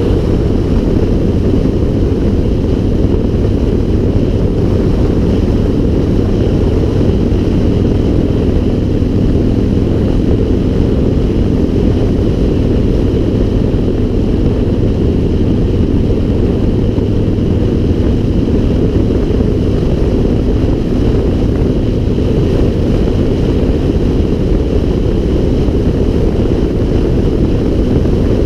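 Steady, loud wind buffeting a GoPro's microphone while riding, with a faint even hum underneath.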